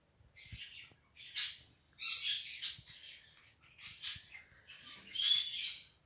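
Dog snoring in its sleep: a run of high, wheezy breaths, roughly one or two a second, with a whistling note near the end.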